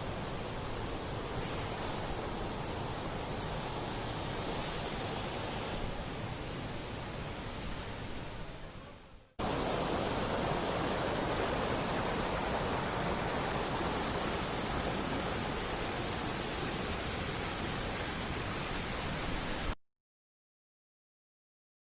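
Waterfall pouring, a steady wash of falling water, in two takes. The first fades out about nine seconds in, and the second, a little louder, starts straight after and cuts off abruptly about two seconds before the end, leaving silence.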